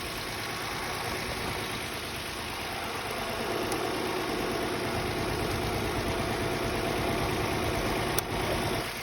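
2017 Mitsubishi Mirage's three-cylinder engine running at a steady idle after a flooded no-start has been cleared. A steadier hum comes in about three and a half seconds in, and there is a single click near the end.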